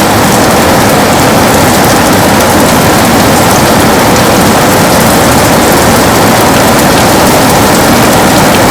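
Heavy rain falling steadily on a window, a loud, even wash of drops with no break.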